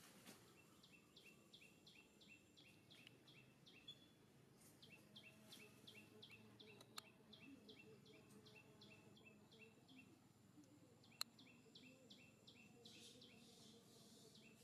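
Faint outdoor ambience with a bird repeating a short high chirp in quick runs, about four notes a second, three times over. Two sharp clicks, one about halfway and one near 11 seconds in.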